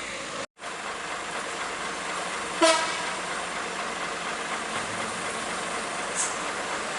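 Steady roadside traffic noise, with one short vehicle horn toot about two and a half seconds in. The sound drops out for a moment just after the start.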